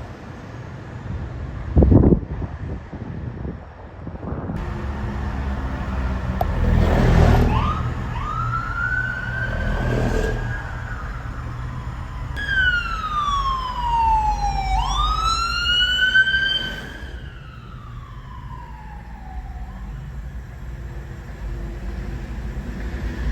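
Emergency vehicle siren wailing as it passes, its pitch rising, holding high, falling and rising again, then falling away, over the low rumble of vehicle engines and traffic. A single loud knock comes about two seconds in.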